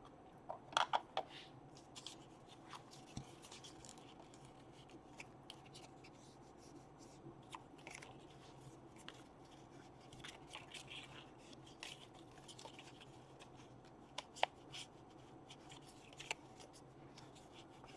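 Paper being handled and its edges inked: soft rubbing and scattered light taps, with a quick cluster of sharper taps about a second in.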